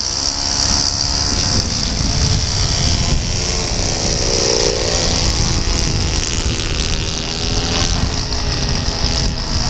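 Engine of a radio-controlled Pawnee model airplane running throughout its landing approach, its note swelling about halfway through, with a steady high insect buzz behind it.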